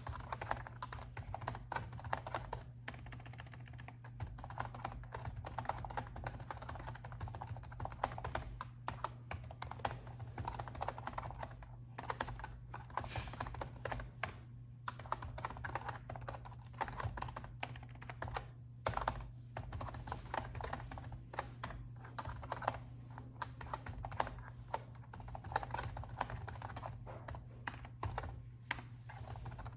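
Steady typing on a laptop keyboard: quick, irregular key clicks with a few brief pauses, over a steady low hum.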